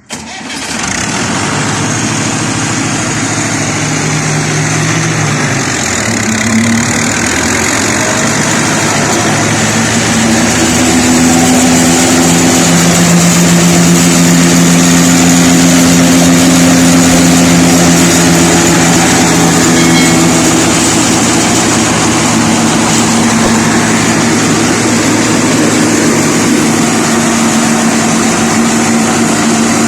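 Tractor engine running a flour mill (aata chakki), a steady engine note with the mill's grinding noise over it, growing a little louder about ten seconds in.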